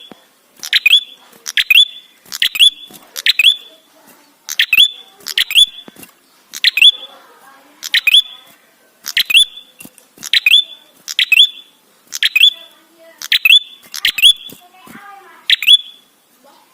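A red-headed prenjak (tailorbird) calling loudly and repeatedly. Sharp, high chirps come about once a second, some in quick pairs.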